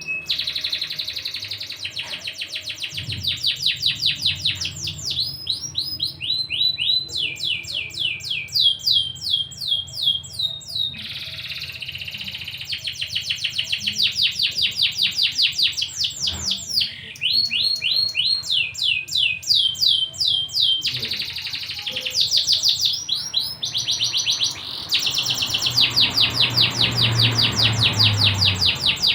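Domestic canary singing long rolling trills: fast runs of rapidly repeated down-sweeping notes, each phrase lasting several seconds before breaking off and starting again.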